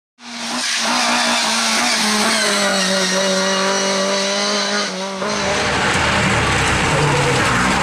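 Rally car engine held at high revs with a steady note that sags slightly in pitch. About five seconds in it cuts to another rally car's engine at a lower, rougher note, climbing as the car accelerates, with tyre noise.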